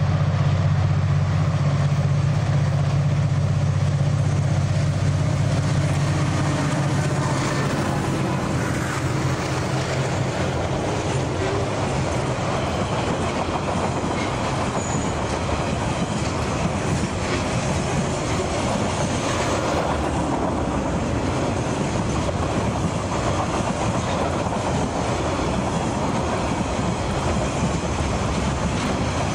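A long freight train passing close by. The low drone of its diesel locomotive's engine fades over the first six or seven seconds. The wagons then roll past with a steady clickety-clack of wheels over the rail joints.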